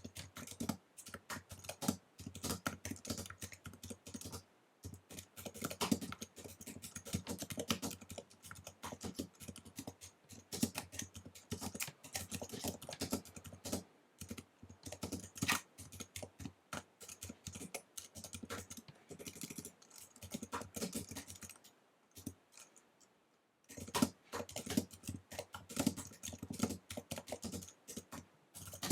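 Fast typing on an Apple wireless keyboard: rapid runs of keystroke clicks, with short pauses and a longer break about three-quarters of the way through.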